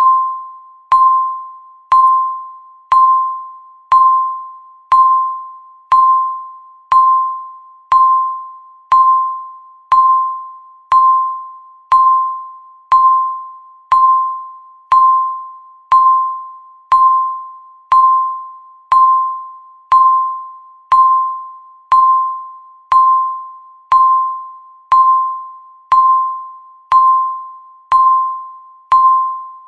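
Countdown timer beeping once a second: a single pitched electronic beep, each with a sharp onset that fades away before the next, about thirty in a steady row.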